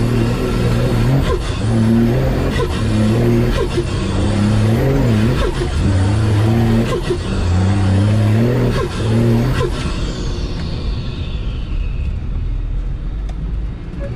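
Nissan TD42 straight-six diesel engine working hard in bursts, its pitch rising and dropping about once a second as the throttle comes on and off. About ten seconds in it eases off to a lower, quieter run, and a high whine falls away.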